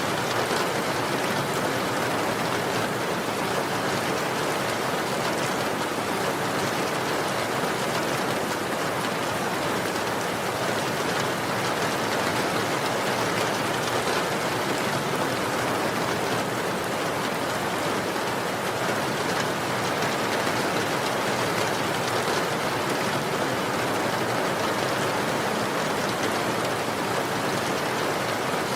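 Steady, unbroken rain falling.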